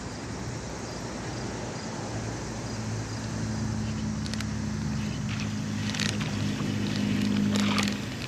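Road traffic: a steady rush of passing vehicles, with a vehicle's low engine hum building over several seconds and dropping away near the end.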